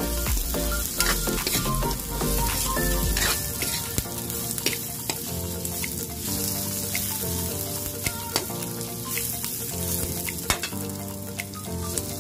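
Shredded chicken, garlic and onion sizzling in hot oil in a metal wok, stirred with a metal spatula that scrapes and clicks against the pan many times.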